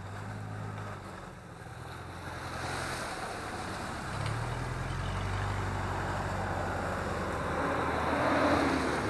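Off-road 4x4's engine running under load, its revs stepping up about four seconds in, with a rushing noise of tyres working through swampy mud and water that builds to its loudest near the end.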